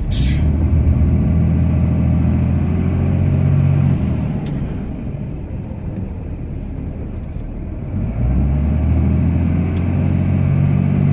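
Cummins straight-six turbo-diesel of a Ram pickup working under load while plowing snow, heard from inside the cab. It runs hard for the first four seconds, eases off in the middle, and pulls hard again from about eight seconds in.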